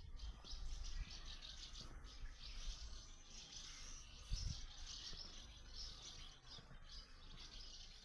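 A flock of swallows twittering: a dense, continuous chatter of many short, high chirps, over a low rumble with a brief thump about four and a half seconds in.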